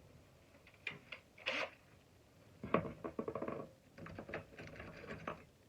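Runs of quick small clicks and rattles from a star-bit driver working screws out of a plastic shop vac housing.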